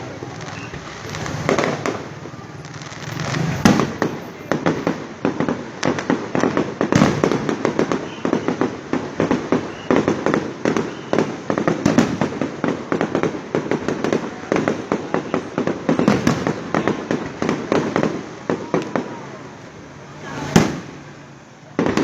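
Fireworks display: a dense run of rapid bangs and crackling pops, thinning out near the end, where one louder single bang stands out.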